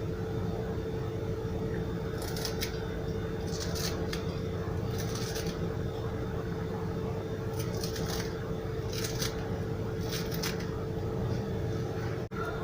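Fresh parsley being cut, about six short crisp rustling cuts at uneven spacing over a steady background hum.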